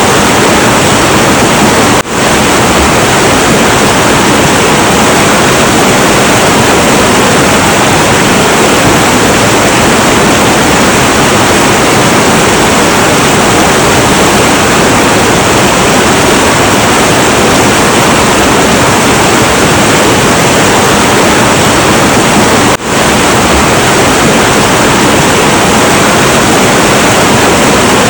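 Heavy, turbulent river water flowing with a steady, dense roar. The level drops briefly twice, about two seconds in and again near the end.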